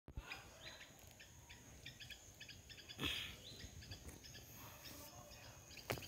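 Faint outdoor ambience with small birds chirping repeatedly and a steady thin high tone, broken by two brief louder rustles, about three seconds in and near the end.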